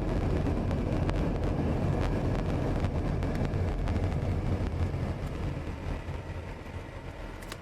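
Steady engine and road noise of a car being driven, easing off over the last couple of seconds as the car slows.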